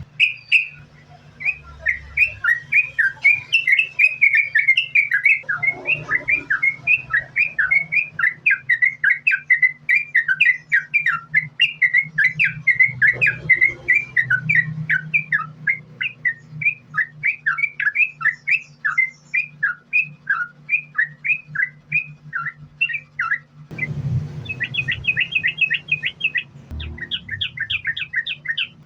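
Yellow-vented bulbul (trucukan) singing a long, unbroken run of short chirping notes, several a second, turning into a faster, higher trill near the end. A steady low hum runs underneath.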